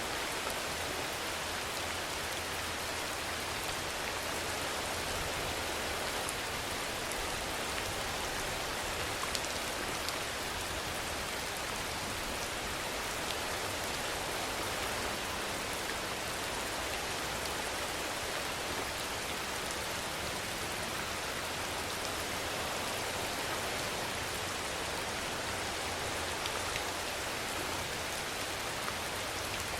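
Steady rainfall hissing evenly, with a few louder single drops ticking now and then.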